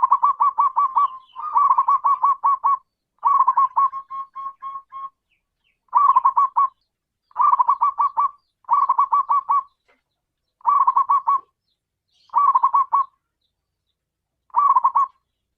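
Zebra dove (perkutut) cooing: about nine phrases of quick repeated coos, each lasting about a second, with short pauses between them.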